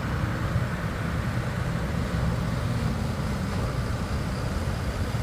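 Steady low engine rumble over a constant wash of surf and wind noise on the beach, with no distinct knocks or changes.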